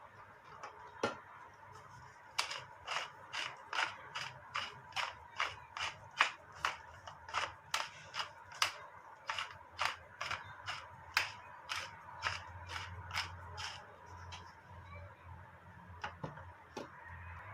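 A run of about twenty sharp, evenly spaced clicks or taps, roughly two a second. They start a couple of seconds in and stop a few seconds before the end.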